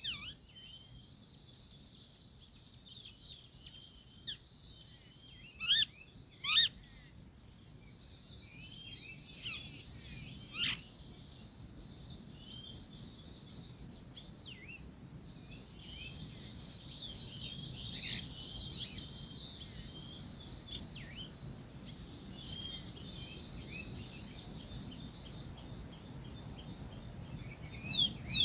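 Small birds chirping and trilling, with rapid runs of repeated notes and a few louder downward-sweeping calls about six seconds in, near eleven seconds, and again at the end.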